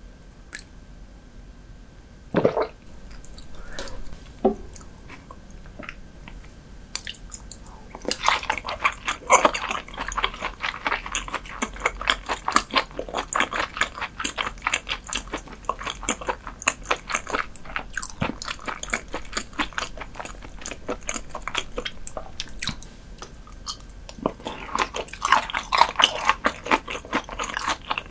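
Close-miked chewing of raw herring: a quieter opening with a couple of short soft thumps, then about eight seconds in a dense run of rapid clicking mouth sounds that keeps going and grows thicker near the end.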